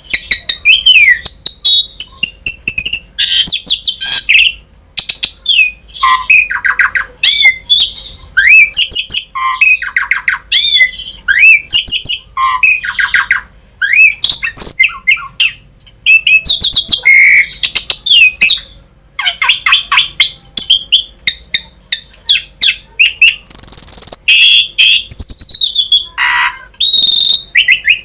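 Jalak suren (pied starling) singing a varied song: a continuous stream of short phrases mixing clear whistles, sweeping notes, harsh squawks and rapid trills, separated by brief gaps.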